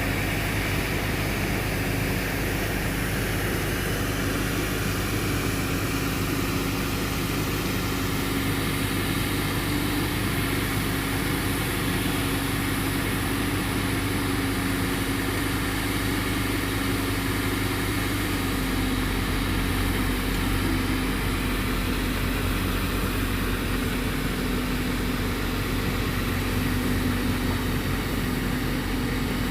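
Fire engine's engine running steadily at a constant speed, a continuous low hum.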